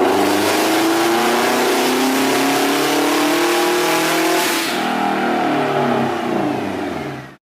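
Car engine making a full-throttle pull on a chassis dyno, the revs climbing steadily for about four and a half seconds, then the throttle lifted and the revs falling as it coasts down. The sound cuts off abruptly near the end.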